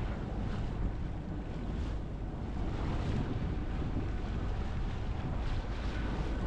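Wind buffeting the microphone and water rushing past the hull of a sailboat under way, a steady rumbling wash.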